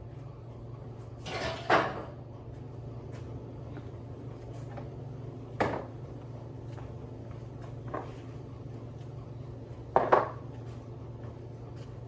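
A few short clattering knocks of hard objects being handled, the loudest about a second and a half in and near the end, over a steady low hum.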